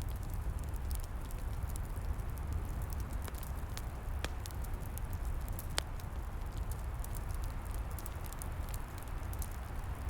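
Log fire crackling with frequent small pops over a steady low rumble, two sharper pops about four and six seconds in.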